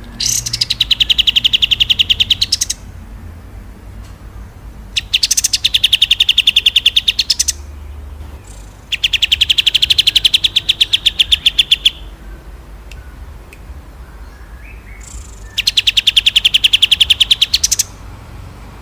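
Songbird giving the rapid rolled trill that bird keepers call a 'tembakan': a fast, even run of repeated high notes. It comes in four bursts of about two to three seconds each, with short pauses between them.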